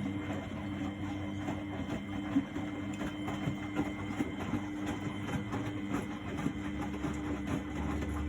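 1999 Miele Novotronic W828 front-loading washing machine running its Cotton 60 cycle: a steady motor hum and whine with a busy clatter of small clicks and rattles.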